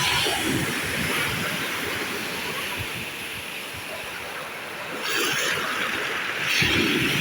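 Sea waves washing onto the shore: a steady rush of surf that swells again about five seconds in and once more near the end.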